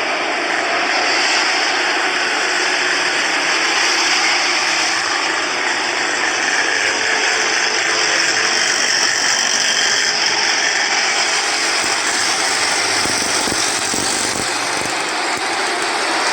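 Jet airliner engines running, a loud, steady rushing noise with a high turbine whine that fades out about eleven seconds in.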